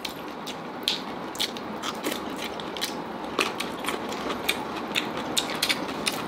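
Close-up eating sounds: people chewing green curry chicken and crunchy bamboo shoots, with wet mouth smacks and many irregular sharp crunchy clicks.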